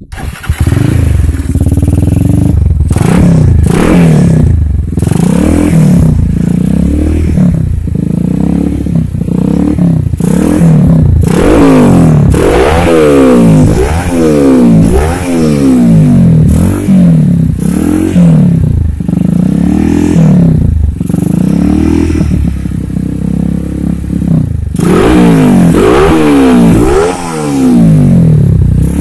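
Motorcycle engine revved over and over through a stock 2009 Yamaha Scorpio muffler that has been gutted (bedel gasbul, baffles knocked out) and fitted with an R Speed header pipe. The throttle is blipped in quick rises and falls about once a second, loud and open-sounding.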